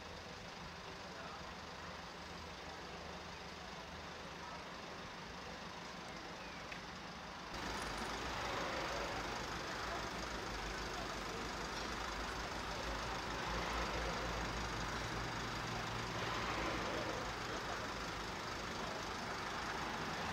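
Steady low engine noise of an idling vehicle with street ambience; the sound steps up abruptly and gets louder about seven and a half seconds in.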